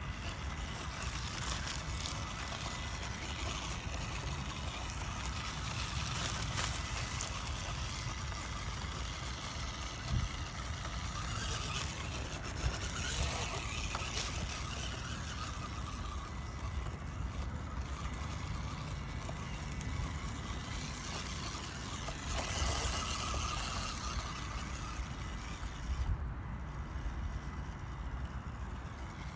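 Radio-controlled off-road scale truck driving over rough ground: its small electric motor and gears whine, wavering in pitch with the throttle, over a steady low rumble, with scattered brief rattles.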